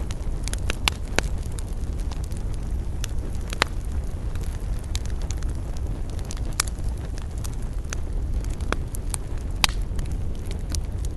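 Wood campfire burning, with irregular sharp crackles and pops over a steady low rumble. The strongest pops come about a second in, near the middle and near the end.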